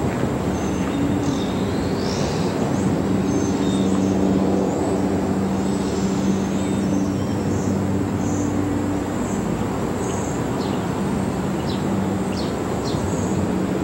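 Freight train moving slowly, its diesel locomotives running with a steady low drone under the rumble of the rolling cars.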